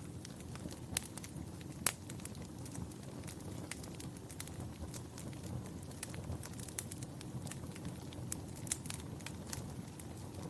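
Wood fire burning in a fireplace: a steady low rumble of flames with frequent sharp crackles and pops, a couple of louder snaps in the first two seconds.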